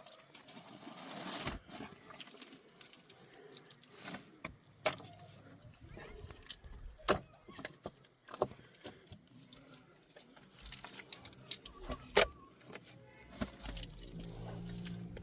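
A few sharp clicks and knocks, scattered irregularly over faint background hiss, the loudest about twelve seconds in.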